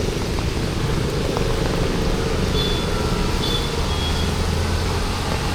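Street traffic ambience: a steady rumble and hiss of passing vehicles, with a few faint short high tones about midway.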